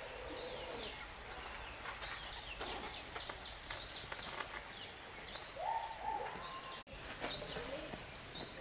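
Birds chirping: a short, high call repeated roughly once a second, with a few lower calls midway, over a faint steady outdoor background.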